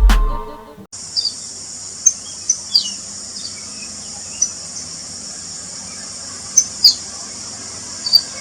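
Steady high-pitched insect drone of crickets or cicadas, with short, sharp bird chirps every second or two, a few of them sliding down in pitch. Music fades out in the first second.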